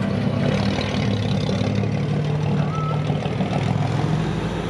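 Car engines running at low speed, a steady low rumble.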